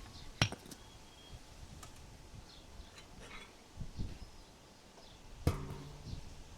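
Two sharp knocks on a metal shed roof, about five seconds apart, the second followed by a brief low ringing.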